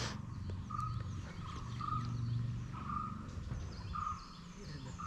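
A bird repeating a short, clear call note about once a second, with fainter high chirps behind it.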